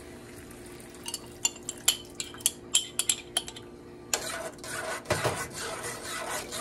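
Metal spoon clinking quickly against the sides of a jar while stirring a cornstarch-and-water slurry. About four seconds in, a steady hiss sets in.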